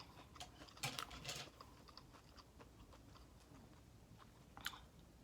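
Faint chewing and mouth clicks from eating a chicken nugget, with a few soft clicks about a second in and one near the end.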